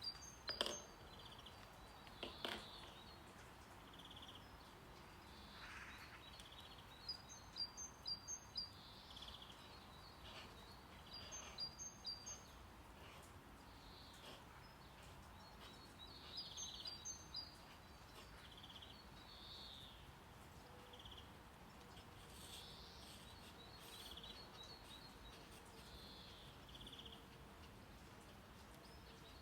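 Birdsong over a steady bed of brown noise: short, high chirps come in little clusters every few seconds. Two sharp clicks sound in the first few seconds.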